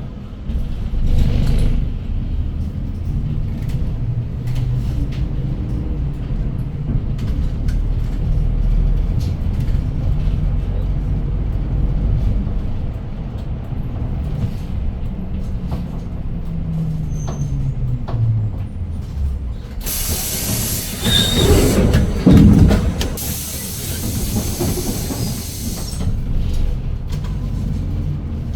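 Inside a city bus on the move: the engine and drivetrain running with a low rumble whose pitch rises and falls as the bus changes speed. About twenty seconds in, a loud hiss runs for around six seconds, broken briefly in the middle.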